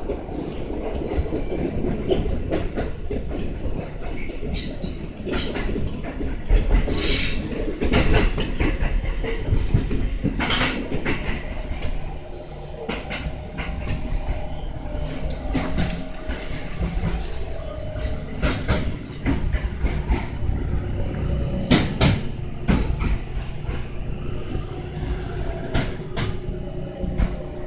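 Inside a Kintetsu local train car while it runs: a steady rumble with irregular clacks of the wheels over the rail joints. Near the end the train is pulling into a station.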